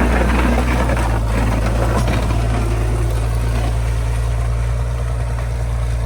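Engine of a vehicle plowing snow with a blade, running with a steady low drone, with a louder rough, noisy stretch in the first second.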